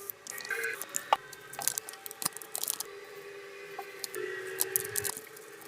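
Paper being handled and crinkled, with irregular sharp clicks and crackles, over a faint steady tone.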